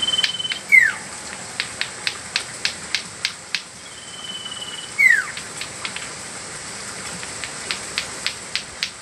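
Common iora (cipou) giving its name-call twice, about four seconds apart: each call is a long level whistle followed by a short note sliding sharply down. Between the calls come runs of quick dry ticks, about three or four a second.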